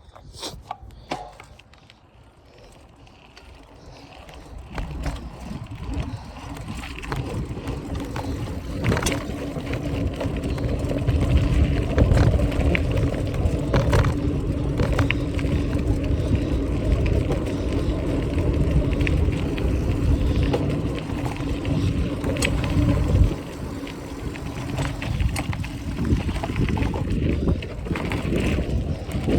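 Wind buffeting the microphone on a moving bicycle, building over the first ten seconds or so as the ride picks up speed, with a steady hum underneath that drops away about twenty-three seconds in.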